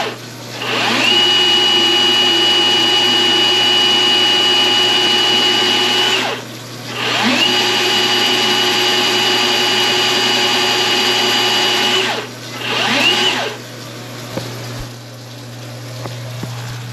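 Milwaukee M18 sectional drain machine's motor spinning up and running steadily with a high whine for about five seconds, stopping, then running for another five seconds, followed by a short burst of about a second, as it drives its 7/8-inch cable toward a main-line clog. A low steady hum sits underneath throughout.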